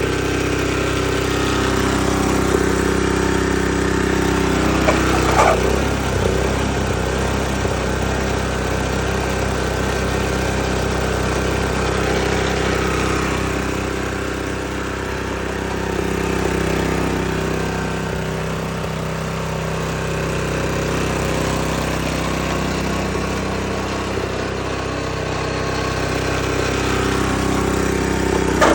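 Honda HS55J snowblower's single-cylinder engine running steadily, its note shifting slightly a few times, with a brief knock about five seconds in and another near the end. The engine is running in working order.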